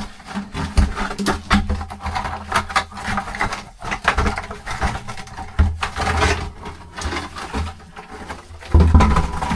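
A bucket on a rope being lowered down a rocky cave pit, with irregular knocks, scrapes and rustling as it bumps against the rock.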